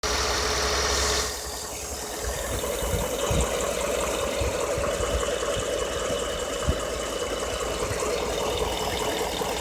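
Ford 5.0 Coyote V8 in a 2014 F-150 idling, with irregular light ticks and knocks over the steady running: the valve tap and knock the owner is complaining of at only 6,800 miles. A louder rush of noise covers the first second.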